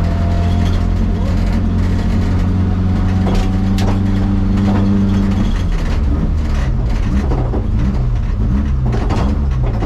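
Renault 18 rally car's engine heard from inside the cabin, first held at steady revs, then from about five and a half seconds in the revs rise and fall again and again as the driver works the throttle through the stage. Scattered clicks and knocks ride over the engine.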